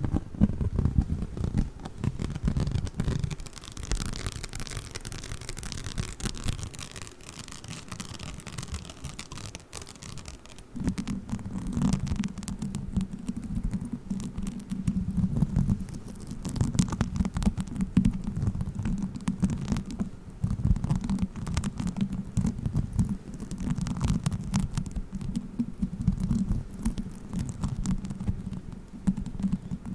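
Play foam (beaded foam clay) squished and kneaded close to the microphone: a dense, fine crackling of tiny beads over a low rumbling squish. The low part grows stronger and steadier from about a third of the way in.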